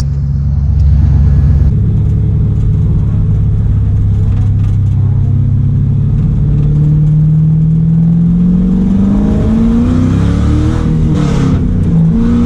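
LS V8 engine of an S13 Silvia pro drift car running loud on a steady note, then climbing in pitch through the second half as it revs up. Near the end the note wavers up and down.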